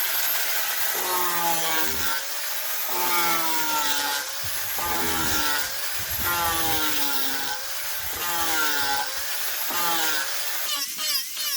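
Power sanding tool working a zelkova-root piece with a steady grinding hiss. Its motor pitch drops each time it bears down on the wood, about every two seconds.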